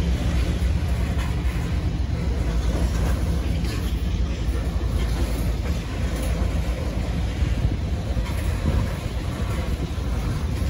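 Covered hopper cars of a long freight train rolling past at a steady speed: a continuous low rumble of steel wheels on the rails.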